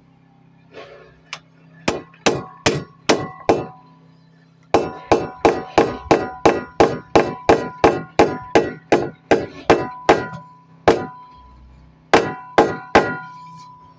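Hammer blows driving dowels into drilled holes to fix a chimney pass-through sheet to a wall: groups of sharp strikes, about three a second at their fastest, each with a brief metallic ring.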